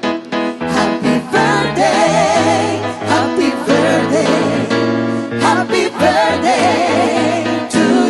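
A gospel song: a voice singing with vibrato over steady bass notes and strummed instrumental backing.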